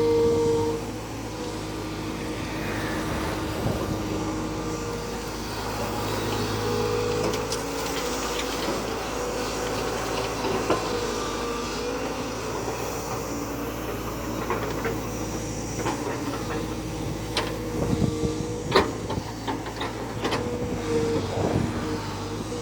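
Diesel engine of a JCB backhoe loader running steadily at work, with a held droning tone and a higher whine over it. A few sharp knocks come about three quarters of the way in.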